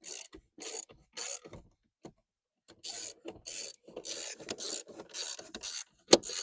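Ratchet wrench clicking in repeated swings, about two strokes a second, tightening a steering column mounting bolt; a short pause after about a second and a half, and one sharp, louder click near the end.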